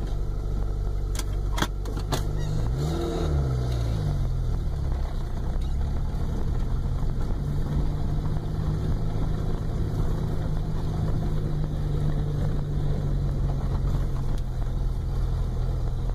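1988 Yugo GV's small four-cylinder engine running as the car drives slowly along a driveway. There are a few clicks in the first two seconds. The engine note shifts up and down in pitch about three seconds in, then holds steady.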